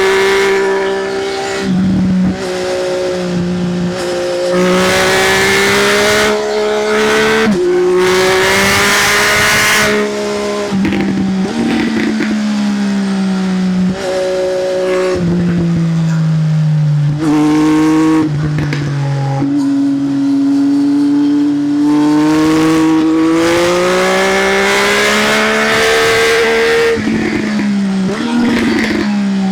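Triumph Speed Triple's inline-three engine through an SC-Project aftermarket exhaust under riding load: the pitch climbs on the throttle, drops at a string of gear changes and winds back down off the throttle into the bends, then climbs again.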